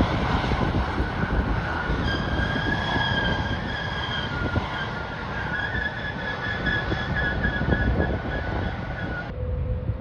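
Wind buffeting the microphone, with a steady mechanical whine of several high tones joining about two seconds in. The whine cuts off abruptly near the end.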